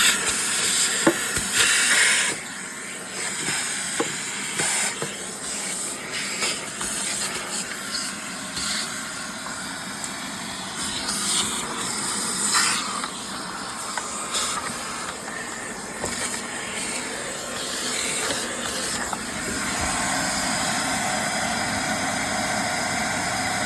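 Vacuum cleaner running and sucking up debris: a continuous rush of air that rises and falls as the nozzle moves, with a few sharp clicks of picked-up bits in the first few seconds. Its sound evens out into a steadier rush about nineteen seconds in.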